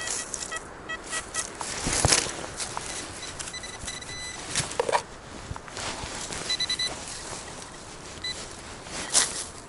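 Metal detector sounding short beeping target tones in several quick bursts. Brief scraping and rustling noises run underneath.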